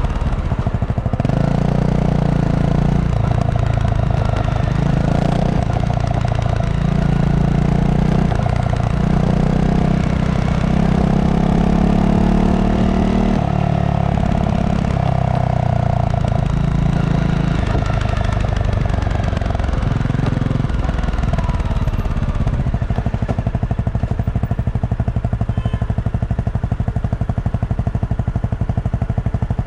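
Honda CRF250 Rally's single-cylinder engine running through its stock exhaust, its note rising and falling again and again for about twenty seconds, then holding steadier.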